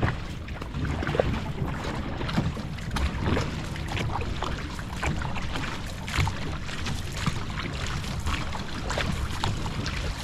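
A three-person outrigger canoe being paddled, with short irregular splashes of paddles and water over a steady wind rumble on the microphone.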